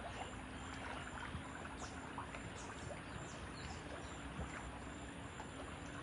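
Outdoor ambience: a steady hiss with birds calling, several short high chirps that fall in pitch.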